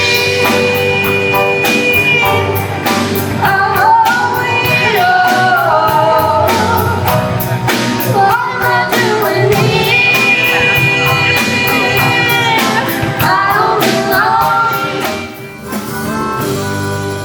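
Rock song with a singer holding long high notes over a steady drum beat and band; the music dips briefly near the end.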